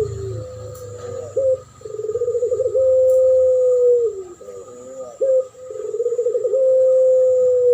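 Doves cooing in a duet, a puter pelung (a domestic collared-dove variety) and a spotted dove (derkuku): each main call is a quick rippling run leading into one long held coo, repeated about every three to four seconds, with shorter coos in between.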